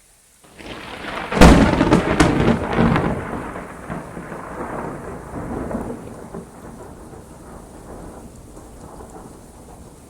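A thunderclap over steady rain. A rumble builds about half a second in and breaks into a sharp crack, with a few more cracks over the next second and a half, then rolls on and slowly fades over several seconds.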